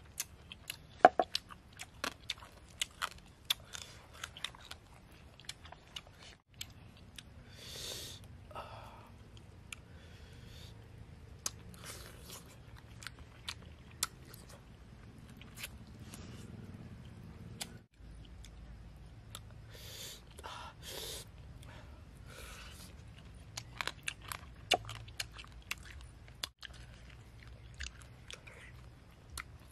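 A person chewing and biting grilled frog close to the microphone: irregular crunches and wet mouth sounds, with the sharpest crunches near the start and again about three-quarters through.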